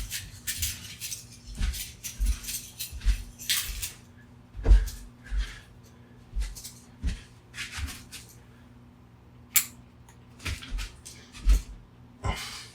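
Irregular clicks, scrapes and rustles of a plastic USB wall adapter being worked at and pulled on by hand in an attempt to rip it apart, with a couple of dull knocks about five and eleven seconds in.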